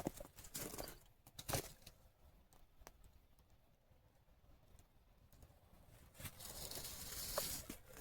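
Rustling and crunching in dry leaf litter and twigs, with a few sharp snaps in the first couple of seconds, a quieter stretch in the middle, and louder rustling again near the end.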